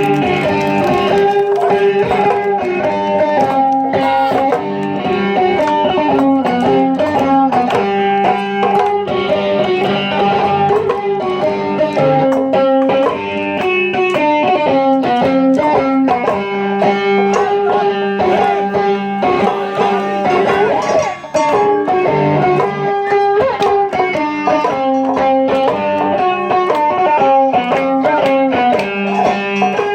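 Live band music: shamisen playing a plucked melody over steady drum strokes.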